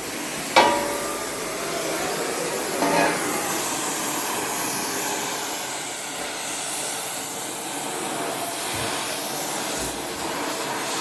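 Steady hissing crackle of welding on the deer stand's steel, with paint burning off as sparks fly. A metal piece clanks sharply about half a second in, ringing briefly, and there is a smaller clank about three seconds in.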